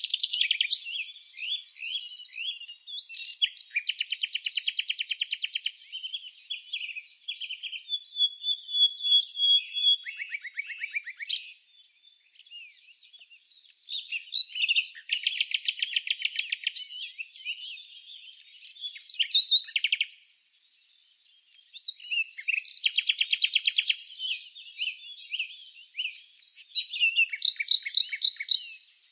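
Songbirds singing: high chirps, whistles and rapid trills overlapping in bursts, with two brief lulls.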